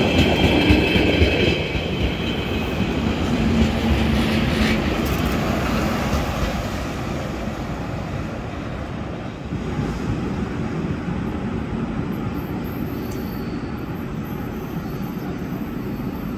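Historic ABDeh 4/4 electric railcar and its coaches passing at low speed: a steady rumble of wheels on rails with clatter over the points, a brief high wheel squeal in the first second or so, and the noise slowly dying away.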